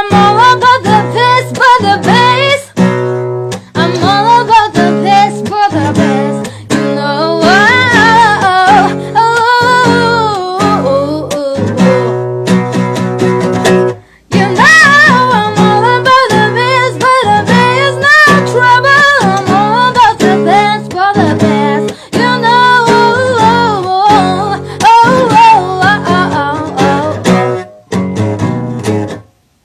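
Acoustic guitar strummed with a woman singing over it. The music stops abruptly near the end.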